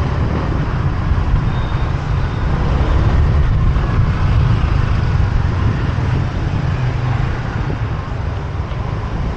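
Motorbike ride through city traffic: a steady, loud low rumble of the bike and the air rushing past, with the noise of surrounding traffic.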